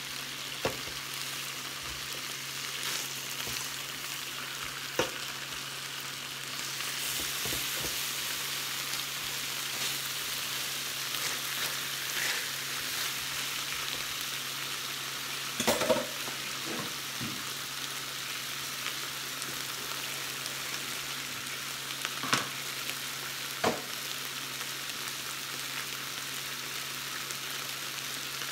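Pork chops sizzling on a flat-top grill: a steady frying hiss that gets a little louder about six or seven seconds in, with a few sharp knocks, the loudest about halfway through.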